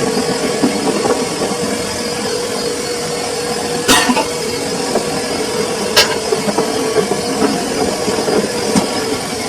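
Samsung washing machine running with a steady whir and a constant hum. Two sharp clicks come about four and six seconds in.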